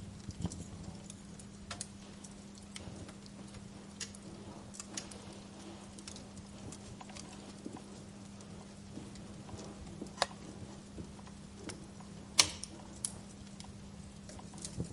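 Wood fire crackling, with irregular sharp pops and snaps, the loudest about twelve seconds in, over a steady low hum.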